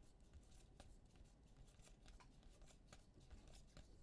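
Faint handling of trading cards: soft scattered clicks and rustles as cards are slid and flipped one at a time.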